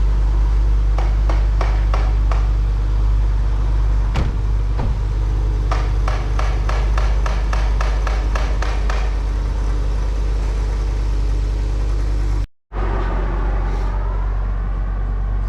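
A car running with a steady low engine drone, with a run of rapid ticking or fluttering clicks in the first half. The sound cuts out briefly about twelve seconds in.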